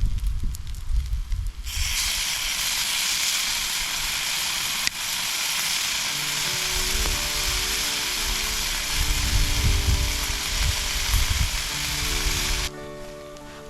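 Food sizzling on a grill over a wood fire, a loud steady hiss that starts suddenly about two seconds in and cuts off shortly before the end. Background music comes in about halfway through.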